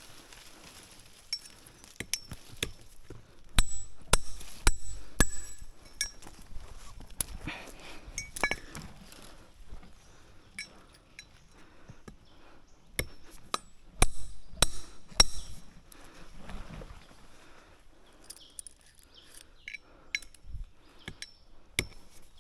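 Irregular sharp clinks and knocks of hard objects striking each other, several with a short high metallic ring, coming in clusters.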